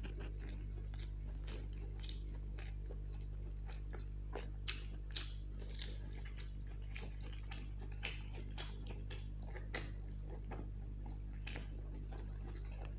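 Close-miked chewing and wet lip-smacking of a man eating a fried long green chilli, with many sharp mouth clicks, the loudest about five seconds in. A steady low hum sits underneath.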